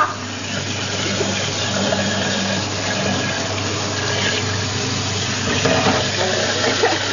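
Hot water running steadily from a tap.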